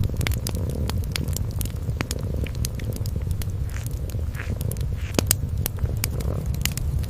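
A kitten purring in a steady, low rumble, with a wood fire crackling: sharp pops scattered irregularly throughout, several a second.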